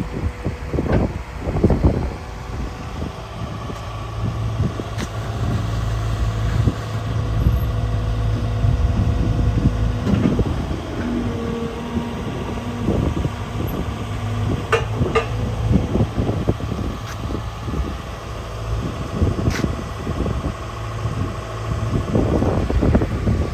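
Volvo EW140D wheeled excavator's diesel engine running steadily, with a thin steady whine over the engine hum and a few sharp knocks.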